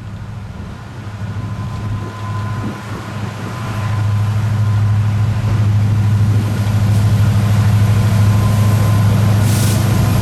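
Diesel freight locomotive engine running with a deep, rapidly pulsing hum, growing louder over the first few seconds as the train approaches, then steady.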